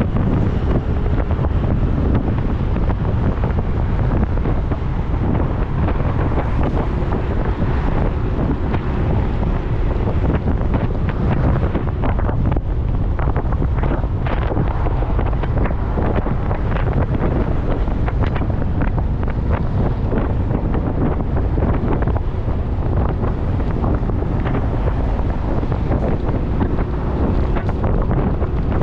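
Steady rushing wind noise on the microphone of a moving motorcycle, heaviest in the low rumble, with faint steady tones underneath.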